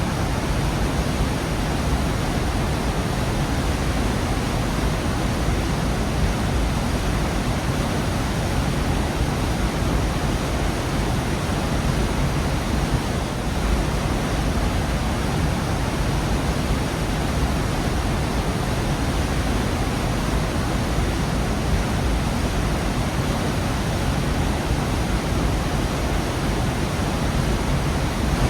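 Waterfall in a rocky gorge: a steady, unbroken rush of falling water, heavy in the low end.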